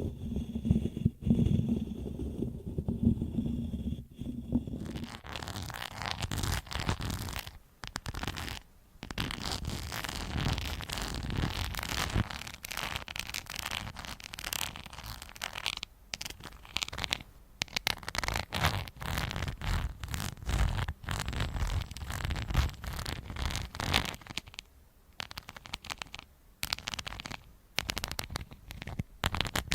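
Close-miked scratching and crackling, as from objects rubbed and handled against a microphone; a low rumble in the first few seconds gives way to dense, stuttering scratchy noise with short pauses.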